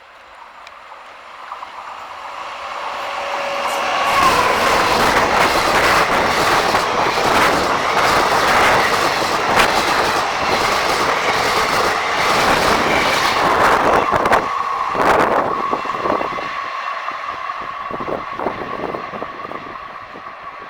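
Indian Railways train running past on a curve: the rumble swells over about four seconds, then wheels clatter over rail joints with a steady high squeal from the wheels in the curve. The clatter thins out near the end and is cut off abruptly.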